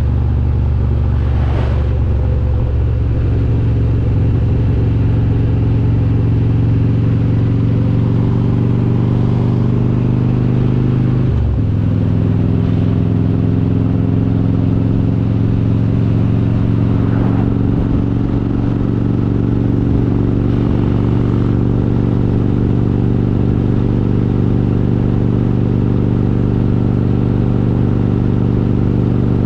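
Harley-Davidson Road King's V-twin, built up with an S&S 95-inch kit and S&S Super Stock heads, running steadily at cruise. About eleven seconds in there is a brief drop and the pitch steps to a new steady level, as at a gear shift.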